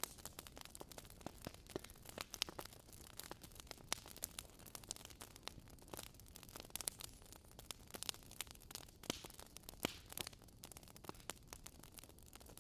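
Wood fire in a fireplace crackling softly: irregular sharp pops and snaps over a low steady hiss.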